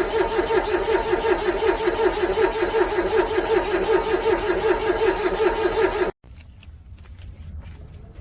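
Car engine cranking on its starter in the cold, an even rhythmic chug of about four to five compression beats a second that never picks up speed. It cuts off abruptly about six seconds in, leaving faint clicks.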